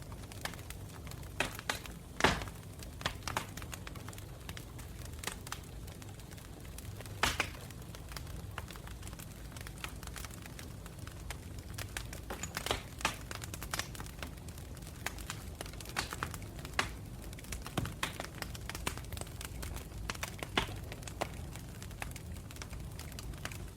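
Campfire burning, with irregular crackles and sharp pops from the wood over a low steady rumble. The loudest pops come about two seconds in and about seven seconds in.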